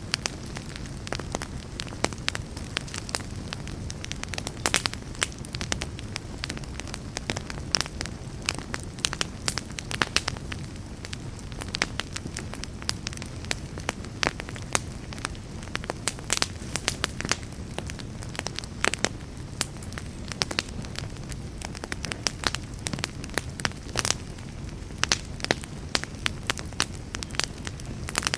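Campfire burning: a steady low rush of flames with frequent irregular crackles and sharp pops of burning wood.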